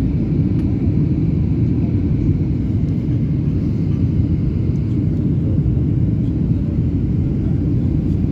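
Steady low rumble of an airliner, even throughout with no separate events.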